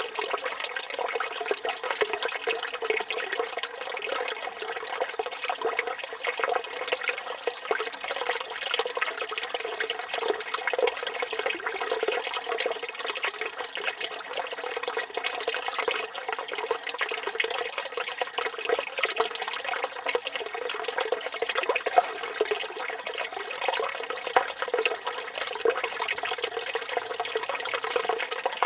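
Water running steadily from a village fountain spout, splashing without pause.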